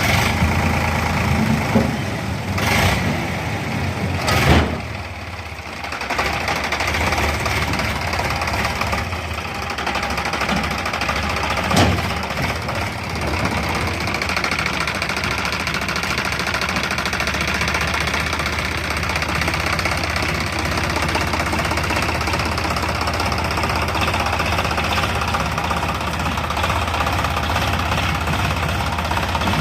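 Tractor engine running steadily, with a few short knocks and clunks, the loudest about four and a half seconds in and another near twelve seconds.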